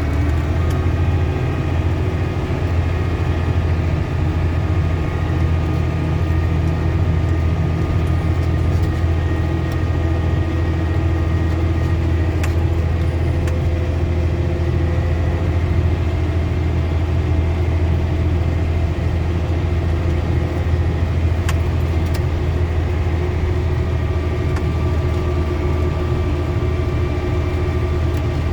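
Motor vehicle engine running steadily at an even idle, a constant low drone that holds unchanged throughout.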